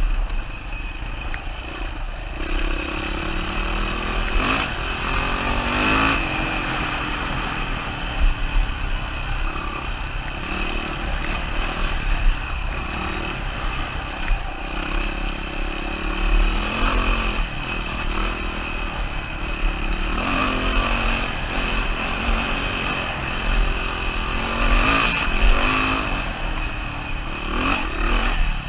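Single-cylinder four-stroke engine of a 2007 Yamaha WR450 dirt bike on the move, revving up and down again and again as the throttle is worked, with wind buffeting the microphone and some clatter.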